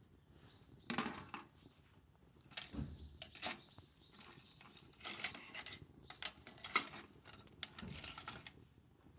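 Irregular light knocks, clicks and short scrapes of small hard objects handled, starting about a second in and stopping near the end.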